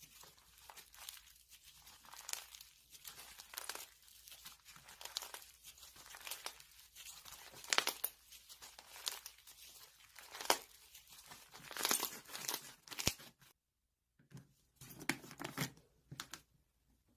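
Irregular crinkling and tearing sounds, a quick run of sharp crackles, with a brief pause about thirteen seconds in before a few more.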